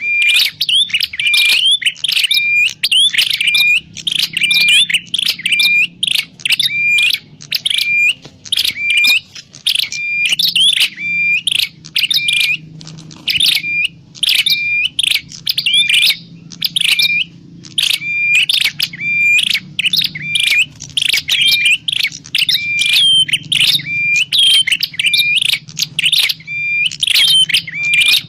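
Prenjak klawu calling in a rapid, continuous run of sharp repeated chirps, played as a lure call for trapping birds, over a faint low hum.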